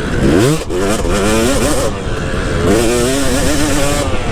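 KTM 250 SX two-stroke motocross engine revving under throttle while riding, its pitch climbing and falling. About half a second in the revs drop briefly, then sweep quickly back up.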